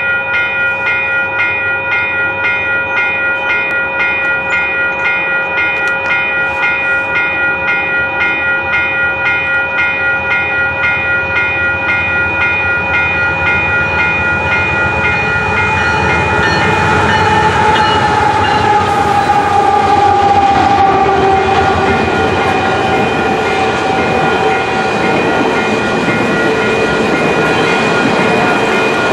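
Freight train approaching with a bell ringing about twice a second over a held horn chord. About two-thirds of the way in, the lead CP AC4400CW diesel locomotives pass with a falling pitch, followed by loaded coal hopper cars rolling and clacking over the rails.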